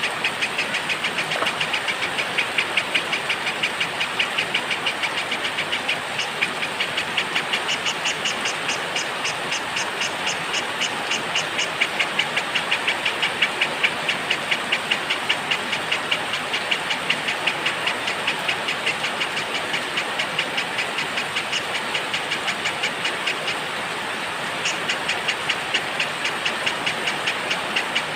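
Steady rain hiss with a small songbird chirping in a rapid, even series of high notes, which breaks off for a couple of seconds about three-quarters of the way through and then resumes.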